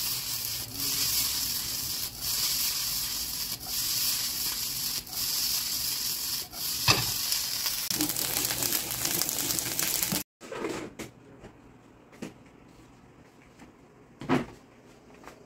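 Fried rice sizzling in oil in a nonstick wok as it is stirred and tossed, with a sharp knock about seven seconds in. The sizzle cuts off suddenly about ten seconds in, leaving a quiet stretch with a few short knocks.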